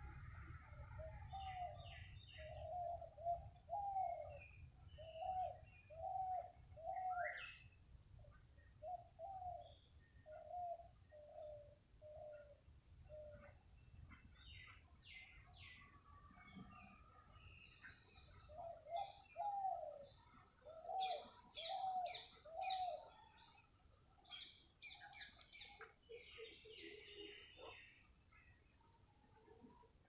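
Birds calling: a low, arching call repeated over and over in two long runs, with many short, high chirps and tweets from smaller birds scattered throughout.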